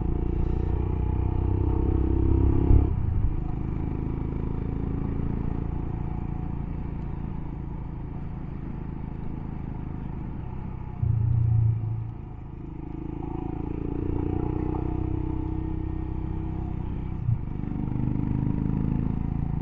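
Motorcycle engine running on the move, its revs rising and easing off with the throttle, with a brief louder low thump about eleven seconds in.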